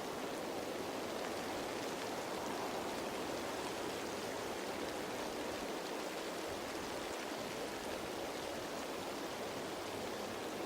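Steady rain falling on leaves: an even, unbroken patter-hiss with no single drops standing out.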